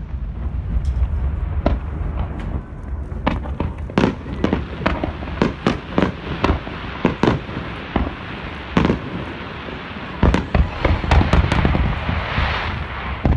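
Aerial fireworks display: a quick run of sharp shell bursts, several a second, over a steady low rumble. A hissing swell rises near the end.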